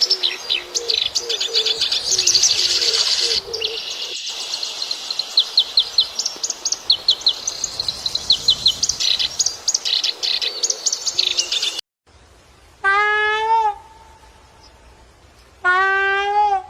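A dense chorus of small birds chirping and tweeting, with a lower call repeating underneath. It cuts off abruptly about three-quarters of the way through. Then a larger bird gives two loud, drawn-out calls, each about a second long and a few seconds apart.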